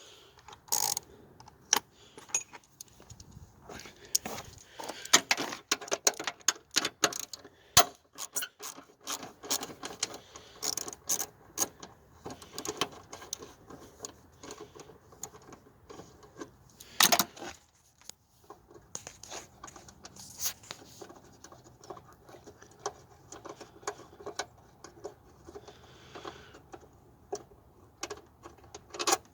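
Ratchet wrench and 10 mm socket undoing a bolt in an engine bay: irregular light metallic clicks and clinks, with one louder clatter a little past halfway.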